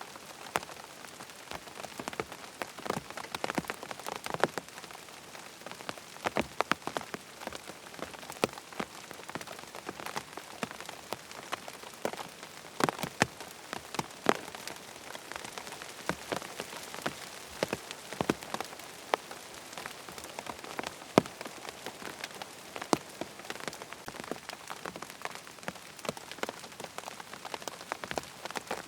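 Steady rain falling on a tent, a continuous patter with many separate drops striking the fabric at irregular intervals.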